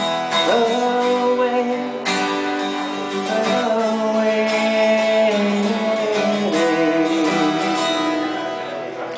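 Acoustic guitar strumming chords under long held sung notes, the closing bars of a slow pop song.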